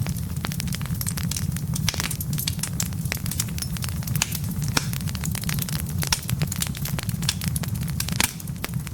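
Wood fire of burning logs crackling, with dense, irregular sharp pops over a steady low rumble.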